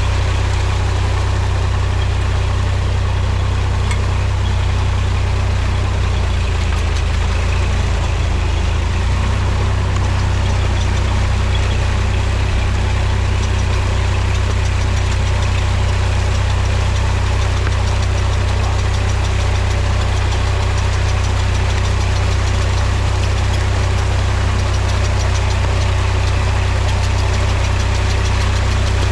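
Mahindra tractor's diesel engine running at a steady speed, a deep even drone that wavers briefly in pitch about seven seconds in.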